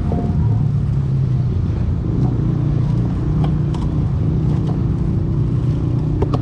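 Kawasaki KX450 dirt bike's single-cylinder four-stroke engine running steadily at low revs, with a few faint clicks.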